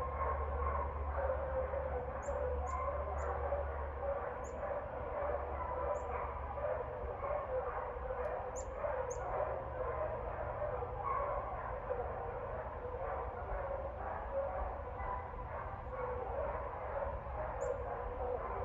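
Dogs barking over and over without a break, with a steady low hum underneath and a few short, high chirps now and then.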